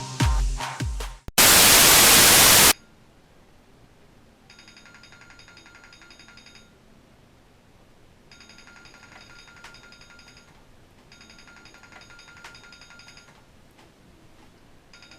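Bass-heavy electronic music cuts off about a second in and gives way to a loud burst of static hiss lasting just over a second. After that comes a faint, high electronic ringing tone in repeated spells of about two seconds each, with short gaps between them.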